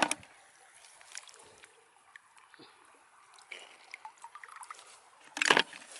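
Water being disturbed in small trickles and light splashes, with scattered small clicks, and a short louder splash about five and a half seconds in.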